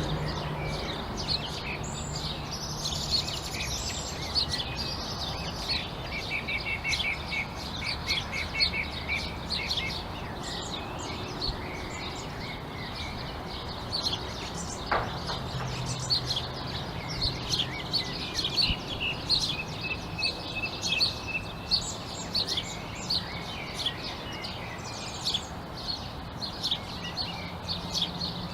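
A chorus of many small songbirds chirping, with short high chirps overlapping densely and, twice, a quick run of rapid repeated notes. A steady low background hum lies underneath.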